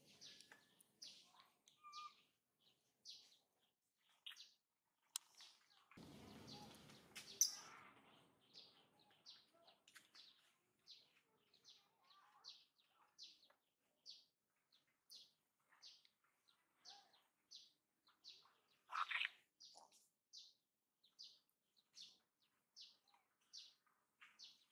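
A bird repeating short high chirps in a steady series, about two a second. There is a brief rustling noise about a quarter of the way in, and one louder, lower call about three-quarters of the way through.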